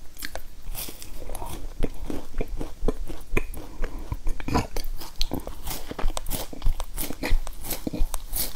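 Person biting into and chewing a crunchy puffed-grain bar with raisins: a rapid, irregular run of crisp crunches.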